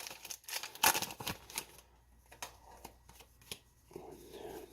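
Pokémon booster pack's foil wrapper crinkling as it is torn open, with the most crinkling in the first second and a half, then sparser light clicks of the trading cards being handled and slid against each other.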